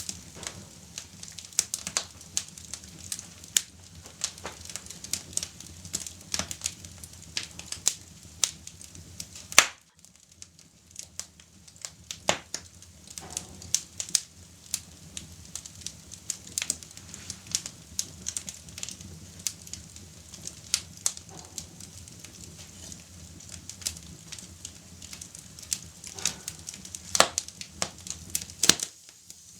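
Fire crackling, with irregular sharp pops and snaps over a low steady hum; the sound drops out briefly just before ten seconds in and again near the end.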